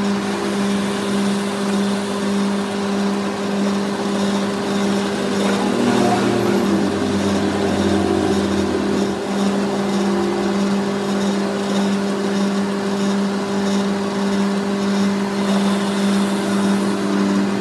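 A machine's motor running at a steady pitch, an even hum with noise over it, from workshop machinery at work on the part.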